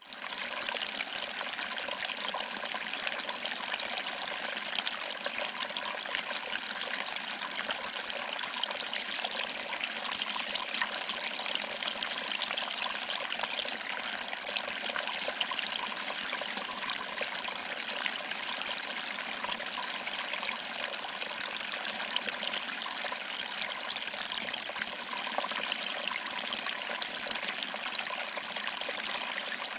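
Small waterfall: water trickling over rocks and splashing into a pool below, a steady even rush with no change in level.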